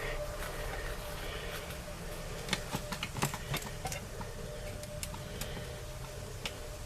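Sharp clicks and light knocks from a hand-operated gear-oil fluid pump and its hose being set in place at a differential fill hole, about a dozen over a few seconds. Under them runs a steady low hum.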